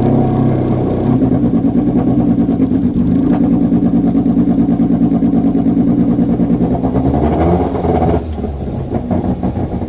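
Race car's 1.6-litre engine held at raised revs for a trackside noise test, then dropping back toward idle about eight seconds in. The engine has a misfire.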